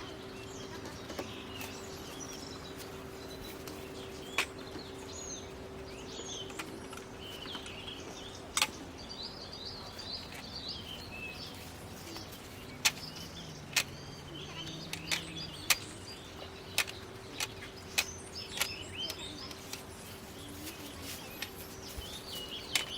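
Small birds chirping and singing throughout, with a dozen or so sharp clicks and knocks scattered among them, some close and loud. A faint steady hum runs underneath.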